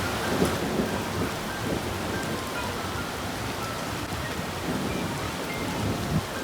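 Rain falling steadily, with irregular low rumbles underneath.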